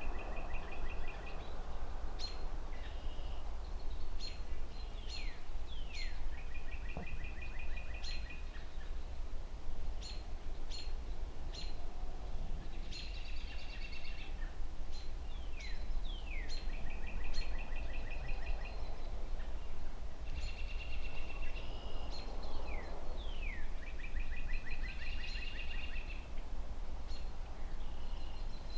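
Songbirds singing over a steady low rumble of distant city traffic. The birds repeat one phrase every few seconds, a quick falling note and then a buzzy trill, with short chip calls in between.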